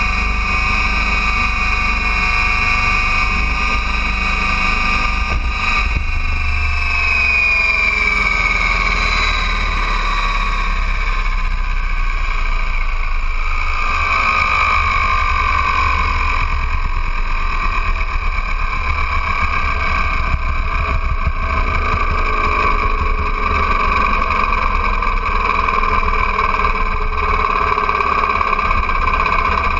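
Align T-Rex 800 radio-controlled helicopter running, a steady high whine from its drivetrain and rotor. The pitch slides down from about six seconds in and then holds steady at the lower speed. A low rumble of wind on the microphone fills the first several seconds.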